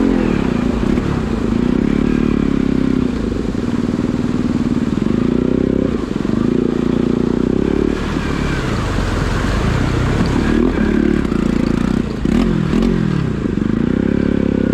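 Bajaj Pulsar NS200 motorcycle's single-cylinder engine running steadily, its pitch rising and falling again and again as the engine speeds up and slows down.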